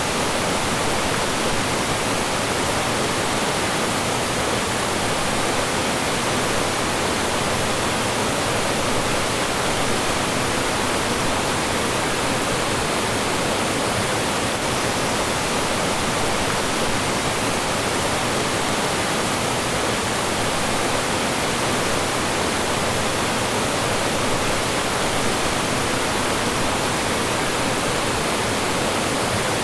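Mountain stream rushing and falling over rocks: a steady, unbroken roar of flowing water.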